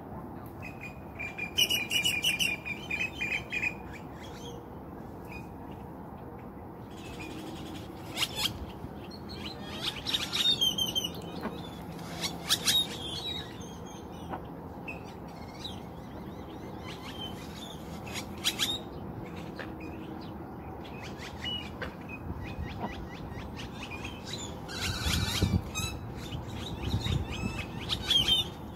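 Birds chirping and calling in short, scattered bursts of high notes, over a steady low background noise.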